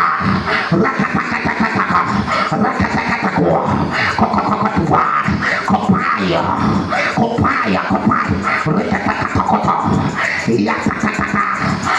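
Many voices praying aloud at once in fervent group prayer, a loud, continuous mass of overlapping, unintelligible voices.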